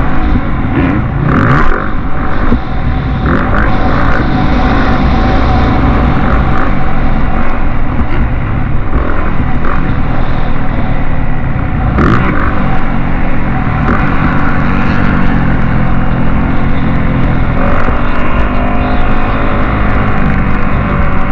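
Motocross motorcycle engines running and revving, their pitch repeatedly rising and falling over a heavy low rumble.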